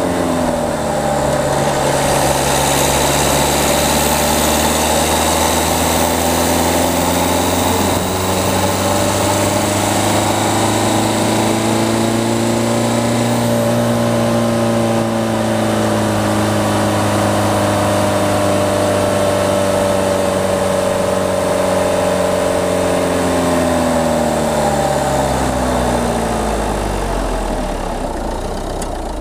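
Peugeot 208's diesel engine pulling the car along, recorded from a camera on the front of the car. The engine note dips at first, climbs slowly to about halfway, then falls steadily and settles to a low note near the end, over road and wind noise.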